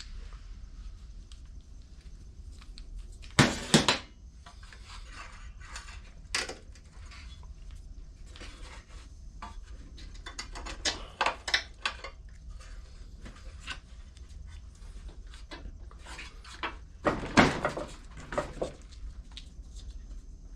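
Metal parts and hand tools clinking and clattering during hands-on work on a small lawn mower engine, with louder bursts of clatter about three and a half seconds in and again a few seconds before the end.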